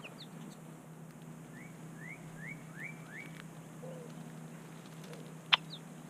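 A bird calling a run of five short rising chirps, about three a second, over a steady low hum. A single sharp tap sounds near the end.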